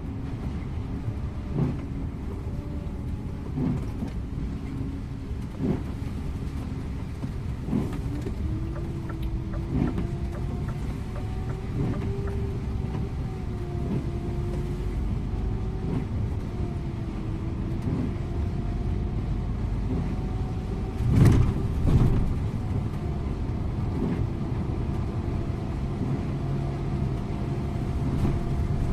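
Scania InterLink bus running steadily at speed, heard from the driver's seat, its engine hum drifting slightly in pitch. Soft thumps come about every two seconds, with a louder double thump about two-thirds of the way through.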